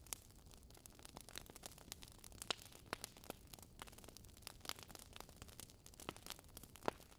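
Wood campfire crackling: irregular sharp pops and snaps, several a second, over a faint soft hiss, with the loudest pops about two and a half seconds in and near the end.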